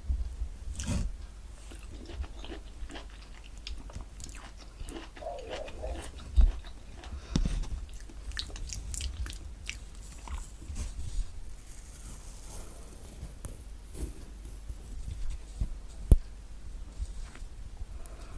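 Close-miked crackling, tearing and clicking of thick orange peel and pith being pulled off orange pieces by hand, irregular throughout, with a couple of sharper knocks.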